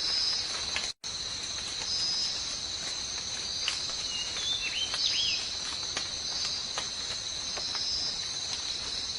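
Steady, high-pitched chorus of insects, with a few short bird chirps around the middle. The sound cuts out completely for an instant about a second in.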